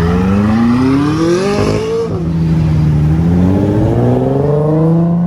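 A loud car engine accelerating hard. The pitch climbs for about two seconds, drops sharply at a gear change, then climbs again more slowly.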